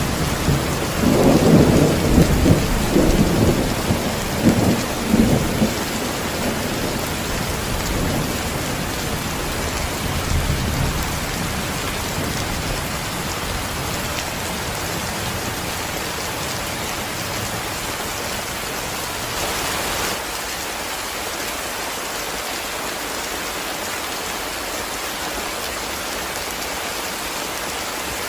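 Heavy rain falling steadily, with thunder rumbling loudly in the first several seconds and then dying away.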